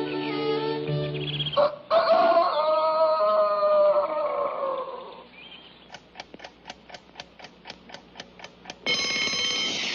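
Cartoon soundtrack: held music notes break off, then a long rooster crow falls away in pitch. It is followed by a clock ticking about four times a second and, near the end, a loud ringing like an alarm clock going off.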